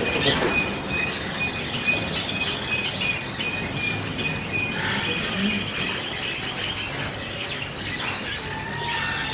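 Caged canaries singing and chirping, one holding a long, rapid trill on a single pitch for about four seconds before it stops.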